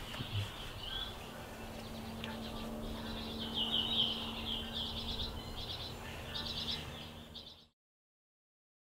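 Small birds chirping in quick repeated phrases over a faint steady low hum. The sound cuts off to complete silence about seven and a half seconds in.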